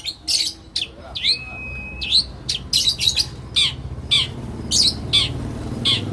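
Lovebirds chirping: a quick series of short, sharp, high-pitched chirps at irregular intervals, with one longer drawn-out whistle about a second in. A low steady hum builds underneath from about two seconds in.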